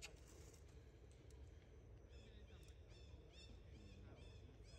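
Faint outdoor ambience with a bird's quick series of short, repeated chirping calls starting about halfway in.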